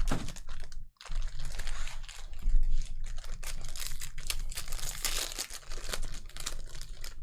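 Plastic trading-card packaging crinkling and tearing as packs are opened, with many quick clicks and crackles.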